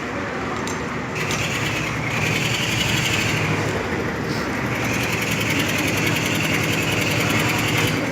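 A construction power tool running with a fast, even rattle. It starts about a second in, eases briefly midway, then runs again until it cuts off.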